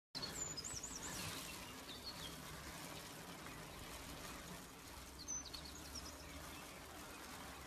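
Faint outdoor ambience: a steady hiss of background noise with small birds chirping, a quick run of high twittering notes near the start and another about five seconds in.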